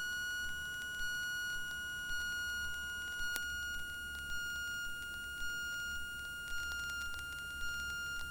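Steady high-pitched electrical whine on a Cessna 172's intercom audio, with faint ticks about once a second. A second, lower tone drops out about a third of the way in.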